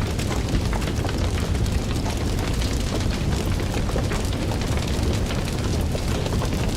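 Fire crackling: a steady low roar of burning with many small snaps and pops scattered throughout.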